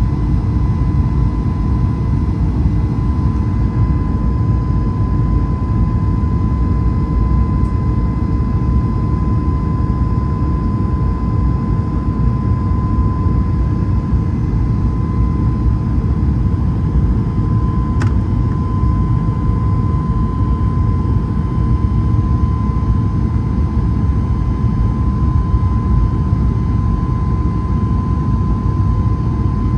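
Boeing 737 MAX 8's CFM LEAP-1B jet engines running at a steady setting: a deep, even rumble with a constant whine over it. One brief click sounds about two-thirds of the way through.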